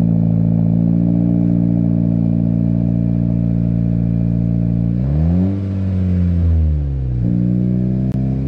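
2017 Honda Civic Si's 1.5-litre turbocharged four-cylinder idling steadily through a MAPerformance race catback exhaust and front pipe, which is nearly a straight pipe. About five seconds in it is blipped once, the pitch rising and falling back over about two seconds, and a second rev starts right at the end.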